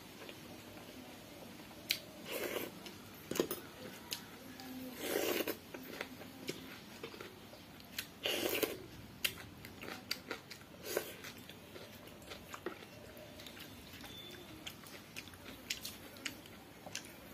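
Close-up eating sounds: a person chewing and biting mouthfuls of pakhala (water rice) eaten by hand with its side dishes, in short bursts every two or three seconds with small wet mouth clicks between.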